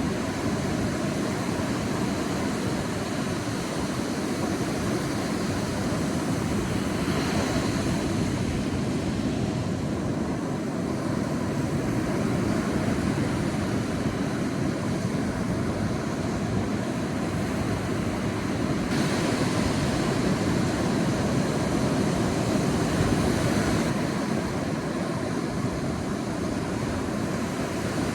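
Sea waves washing on a beach: a steady low rush of surf that swells and eases slowly.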